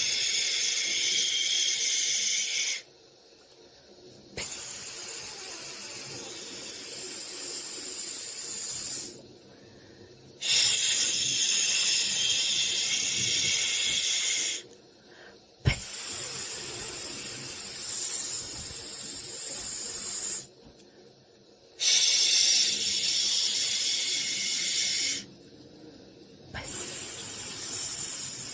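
Soothing 'shhh' white noise for a baby: long hissing bursts of about three to five seconds each, with a pause of about a second and a half between them, like a rhythmic shushing.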